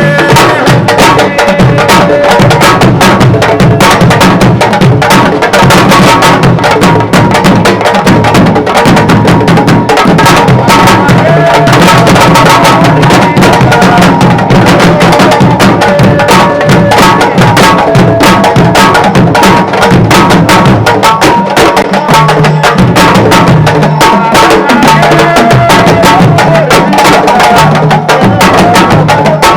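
Sabar drums played loud and fast, a dense, unbroken run of sharp hand-and-stick strokes.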